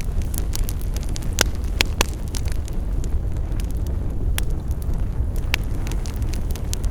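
Campfire burning: wood crackling and popping over a steady low rumble, with a few louder snaps about a second and a half to two seconds in.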